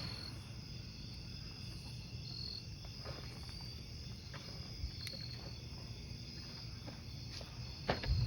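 Crickets chirping steadily over a crackling wood fire, with scattered sharp pops from the burning logs and a louder crack near the end.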